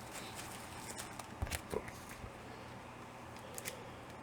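A few faint, light taps and rustles over quiet room tone, clustered about a second and a half in and again near the end.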